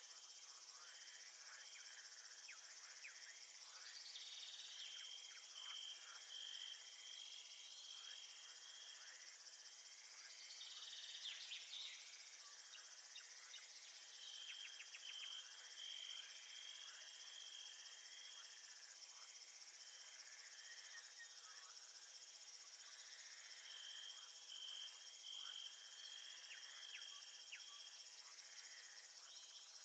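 Faint chorus of crickets and other insects: a steady, dense high chirping. Over it one insect's pulsed trill comes and goes in runs of a few seconds, about every ten seconds.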